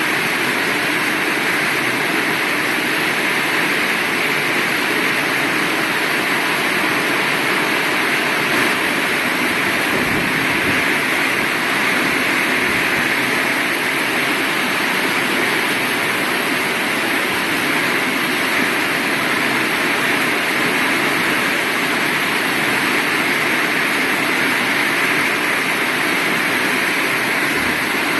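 Heavy rain falling steadily, a dense even hiss, with a couple of faint low bumps.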